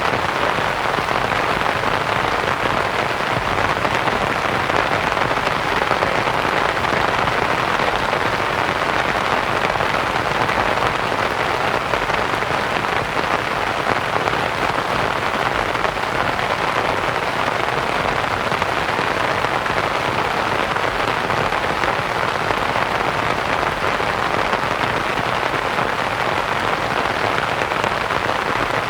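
Steady rain falling on a canvas tent, mixed with soft white noise.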